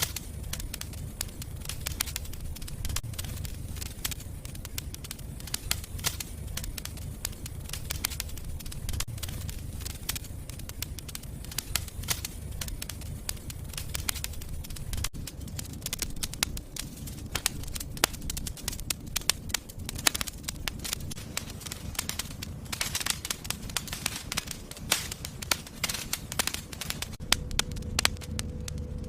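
Wood fire burning in a fireplace, crackling and popping constantly over a low rumble of flames, with a few louder snaps.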